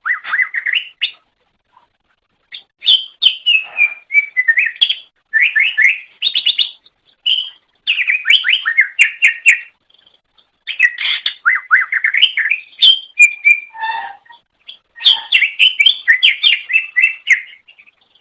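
A cucak ijo (green leafbird) singing a fast, varied song: phrases of rapid chirps and whistled glides, a second or two long, broken by short pauses.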